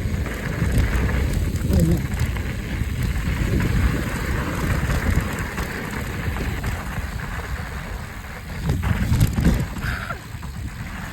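Mountain bike riding over a dirt trail: tyres rolling on the dirt and wind buffeting the microphone make a steady, low-heavy noise.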